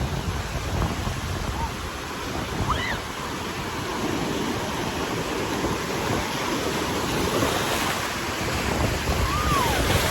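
Ocean surf breaking and washing on the shore, with wind buffeting the microphone. A few faint, brief high calls sound above it.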